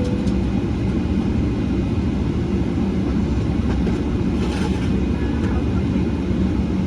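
Cabin noise aboard a Boeing 777-300ER on the ground: a steady, loud low rumble of its GE90 engines and the airframe rolling. A brief hiss rises over it about four and a half seconds in.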